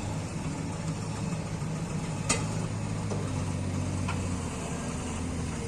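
Vehicle engine idling steadily, with a single sharp click a little over two seconds in.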